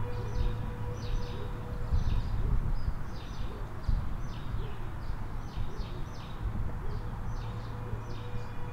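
Birds chirping: short high chirps, often in pairs, a couple each second, over a steady low rumble. A held electronic music drone fades out in the first couple of seconds and comes back near the end.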